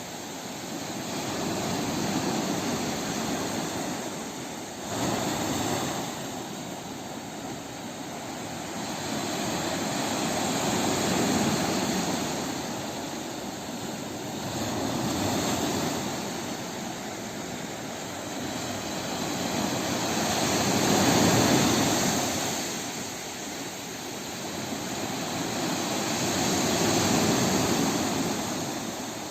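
Sea waves washing onto the shore, a rushing surge that swells and fades roughly every five or six seconds, one arriving a little more sharply about five seconds in.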